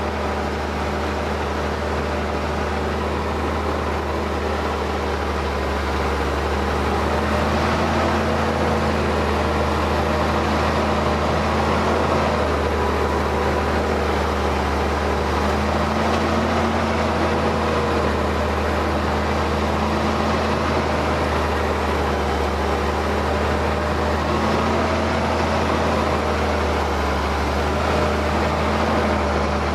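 Ford TW tractor's diesel engine running steadily under load while pulling a plough through the soil, getting slightly louder about seven seconds in.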